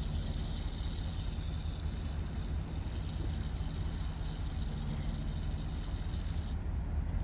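Steady low rumble of an idling engine, with a high hiss over it that cuts off suddenly about six and a half seconds in.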